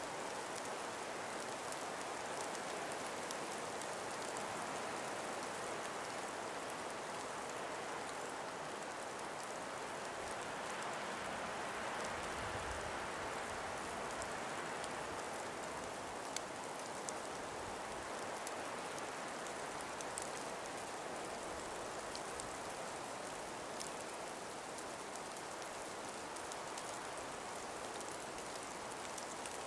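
Calm breeze through ice- and snow-laden forest trees: a steady soft hiss that swells briefly about twelve seconds in, with faint scattered ticks.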